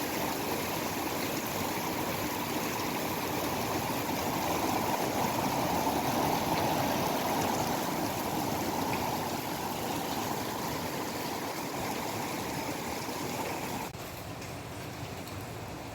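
Steady rushing of heavy typhoon rain, swelling a few seconds in and dropping abruptly near the end.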